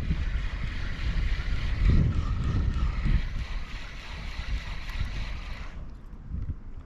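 Gusty wind buffeting the microphone, with a steady hiss over it that cuts off suddenly near the end.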